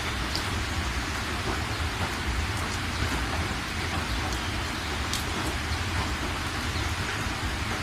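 Steady rain falling, with scattered sharper drop ticks over a continuous low rumble.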